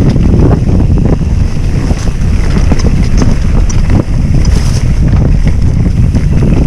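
Loud wind buffeting on the microphone while riding a bicycle at speed, with scattered small clicks and rattles.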